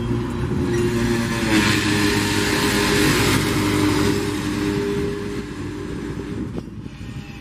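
Loaded mineral hopper wagons rolling slowly past behind a shunting EMD GR12W diesel locomotive: a steady diesel drone under rolling wheel-and-rail noise, which swells into a louder rush between about one and a half and three and a half seconds in. A single sharp knock comes near the end.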